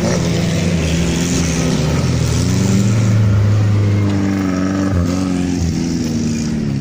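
Suzuki Jimny 4x4 engine running under load, its pitch rising about two seconds in, holding, then easing near the end.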